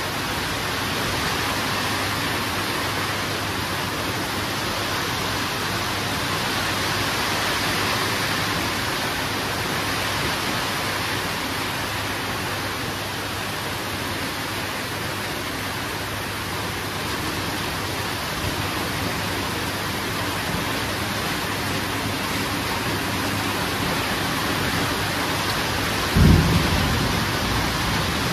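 Steady heavy rain falling, with one short, sharp low clap of thunder near the end that is the loudest sound.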